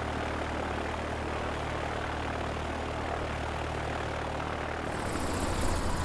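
Light propeller aircraft's engine and propeller droning steadily at reduced power on final approach. About five seconds in the sound turns to a rougher rumble with added hiss as the wheels touch down and roll on the runway.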